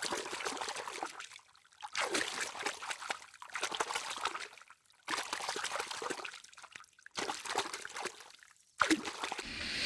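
Water trickling and splashing, in several short stretches broken by brief quiet gaps.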